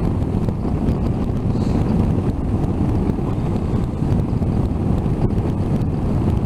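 Steady wind rush buffeting the microphone of a motorcycle riding at road speed, with engine and road noise mixed in underneath.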